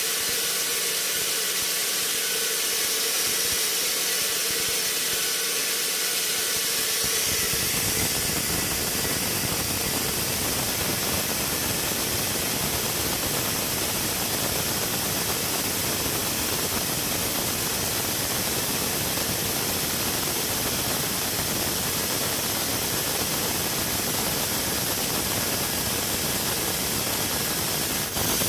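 Sawmill machinery running with a steady hiss, which about seven seconds in becomes a fuller, denser noise that holds steady to the end.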